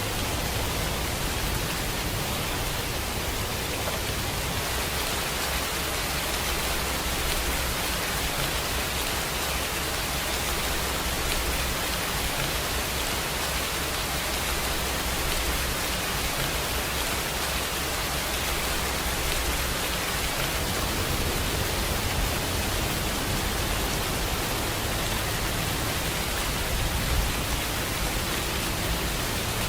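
Steady rainfall, an even hiss of rain on surfaces with a low rumble beneath, unchanging throughout.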